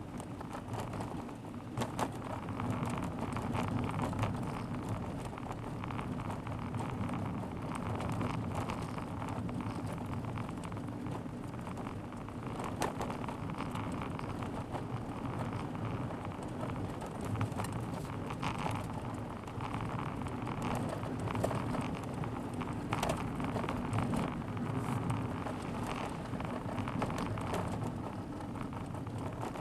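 A car driving, heard from a dashcam inside the cabin: steady road and engine noise with frequent small, irregular ticks and clicks.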